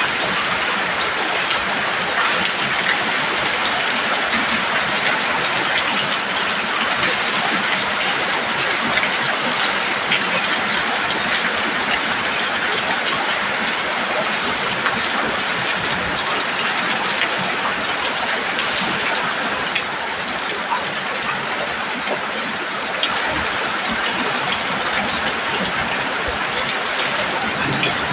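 Heavy rain falling on a roof: a steady, dense patter of drops.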